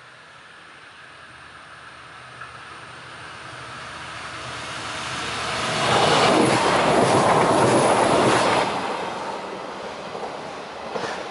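A eurobahn passenger multiple unit approaching and passing close by, wheels running on the rails. It grows steadily louder, is loudest for about three seconds as it goes past, then fades as it moves away.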